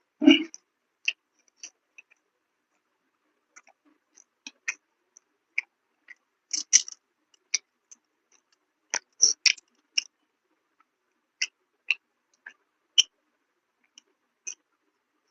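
Close-miked mouth sounds of a person eating: scattered short wet clicks and smacks of chewing, irregular and with pauses, and a louder, fuller one right at the start.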